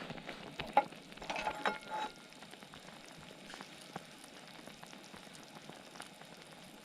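Water boiling, a steady bubbling hiss with scattered pops, and a few light metallic clinks about one to two seconds in.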